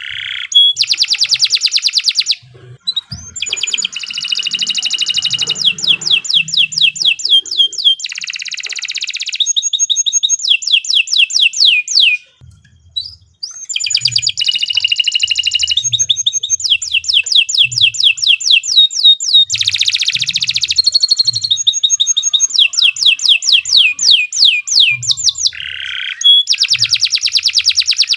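Domestic canary singing long trilled phrases: fast runs of repeated falling notes, one phrase after another, broken by two short pauses. Faint low thuds sit under the song.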